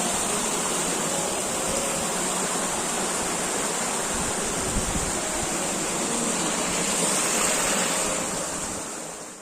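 Steady rushing of flowing water, with a strong high steady hiss over it, fading out near the end.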